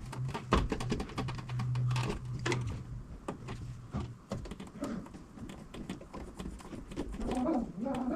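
Scattered light clicks and taps of hand tools working on electrical wire, with a steady low hum through the first three seconds.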